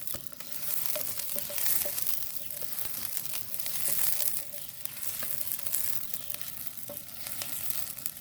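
Chopped onion sizzling in hot olive oil in a wok, stirred now and then with a wooden spatula; the crackling hiss swells and eases.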